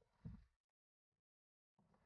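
Near silence, with one brief faint low thud about a quarter of a second in.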